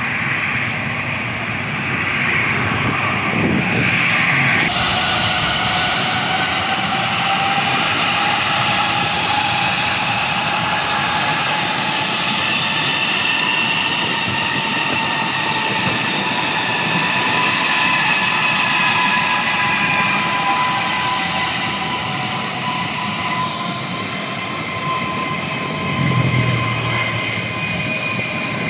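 Jet airliner engines running loud and steady, with several whining tones that drift slowly up and down in pitch as the aircraft moves. The sound changes abruptly about five seconds in.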